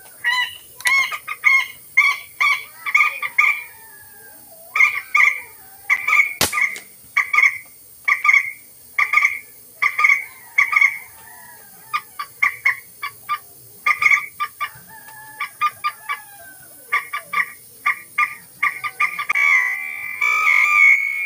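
A bird calling over and over in short, harsh notes, about two a second, with a single sharp click about six seconds in.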